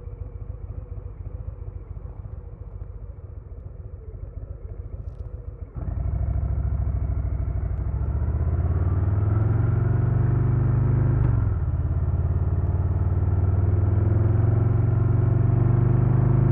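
2022 Harley-Davidson Low Rider S's Milwaukee-Eight 117 V-twin engine and exhaust, running at light throttle and then opened up suddenly about six seconds in. The revs climb, break briefly for a gear change just past the middle, and the bike pulls hard again.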